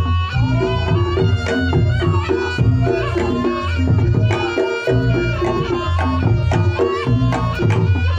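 Reog Ponorogo gamelan playing the jathilan accompaniment: a reedy slompret shawm melody that bends in pitch, over driving kendang drumming and low gong strokes.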